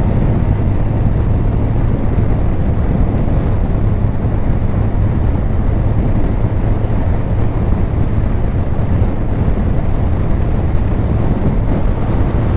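Steady wind rush over the microphone while riding a Kawasaki Ninja 1000 motorcycle at an even speed, with its inline-four engine running at a constant pitch underneath.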